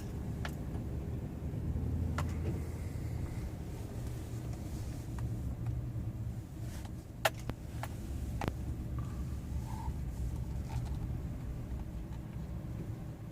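Pickup truck's engine idling steadily, heard from inside the cab as a low hum, with a few sharp clicks, the loudest about seven seconds in.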